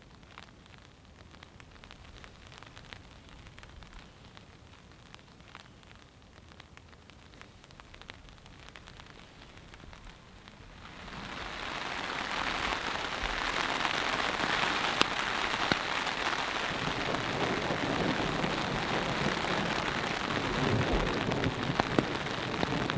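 Rain, at first only a faint scatter of drops, builds quickly about eleven seconds in into a steady, heavy downpour.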